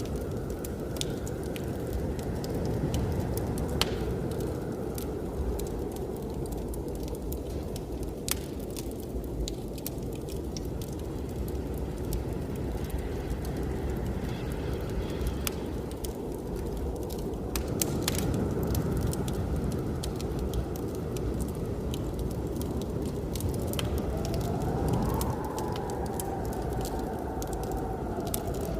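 Wood fire crackling and popping over the steady low rumble of blizzard wind. Near the end a wind howl rises and then falls away.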